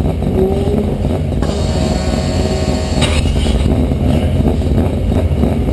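Car engine revving, loud and continuous.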